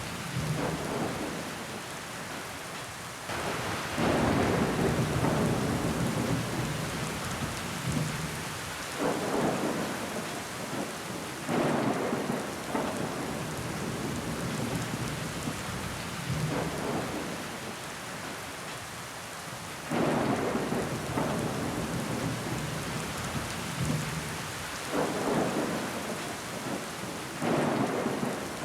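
Rain falling steadily against a window pane, surging louder every few seconds.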